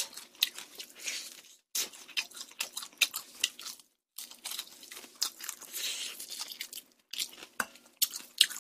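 Close-miked chewing of hot, crispy rice-batter fried chicken: irregular sharp crunches and crackles as the crisp coating is bitten and chewed, broken by a few brief silent gaps.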